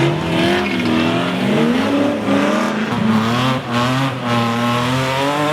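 Drift cars' engines revving up and down as they slide on a wet track, with more than one engine heard at once, their pitches rising and falling and crossing.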